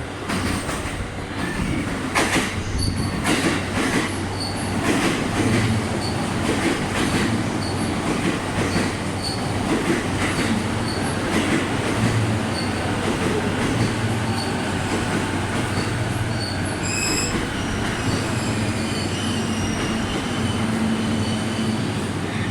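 JR East E231 and E233-1000 series electric commuter trains passing each other on adjacent tracks. The wheels clatter over the rail joints in a steady run of clicks above a continuous running rumble, with a brief high squeal about seventeen seconds in.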